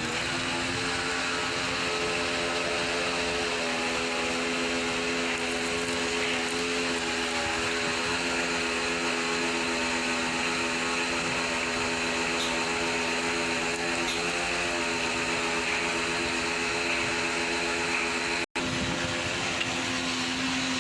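An electric motor starts up and runs steadily, a constant hum over a rushing noise. The sound drops out for an instant near the end.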